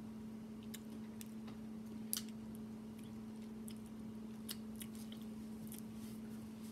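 Soft mouth sounds of eating seafood: quiet chewing, lip smacks and finger licking, heard as scattered small clicks, the sharpest about two seconds in, over a steady low hum.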